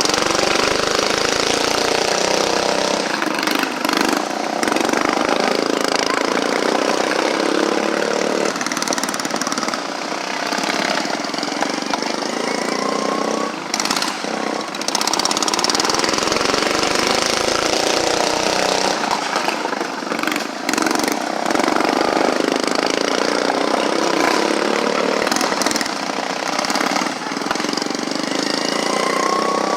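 An engine running steadily, its sound shifting in tone every few seconds.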